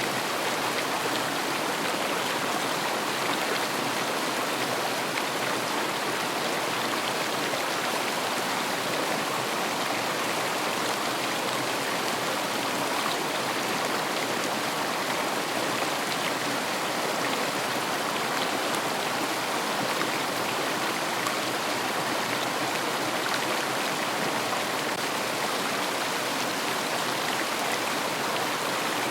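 River water rushing steadily over stones, a constant, even flow without change.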